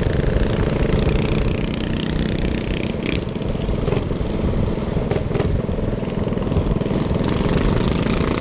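Small minibike engine running steadily, with a few short clicks or knocks partway through.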